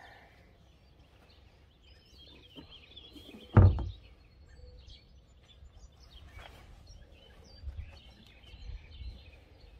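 Faint outdoor background with small birds chirping now and then, and one dull thump about three and a half seconds in, the loudest sound here.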